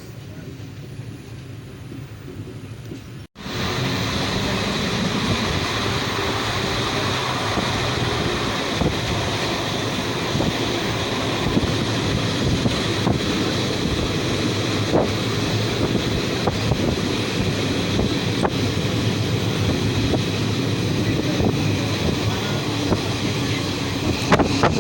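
Passenger train running along the track: a quieter rumble at first, then after an abrupt cut about three seconds in, a louder steady rush of wheel noise and wind buffeting the microphone.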